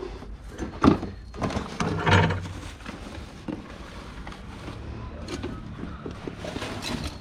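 Items being moved about in a pile of discarded junk: a sharp knock about a second in and another clatter about two seconds in, then quieter shuffling and scraping.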